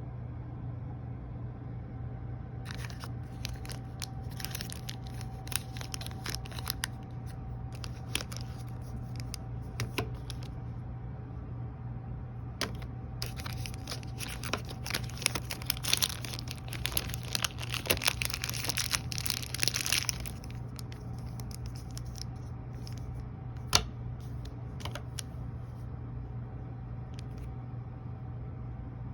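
Candy wrappers being torn open and crinkled as Mamba fruit chews are unwrapped, in two long spells of rustling with a sharp click later on. A steady low hum runs underneath.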